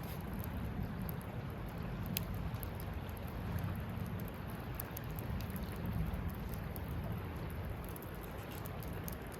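Wood campfire burning with a steady low rush and scattered sharp crackles and pops.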